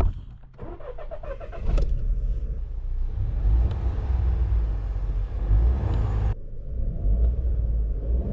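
SEAT Arona's 1.0 TSI three-cylinder turbo petrol engine running as the car is driven, over a heavy low road rumble. There are a couple of knocks in the first two seconds and the engine note rises near the end. The sound changes abruptly about six seconds in.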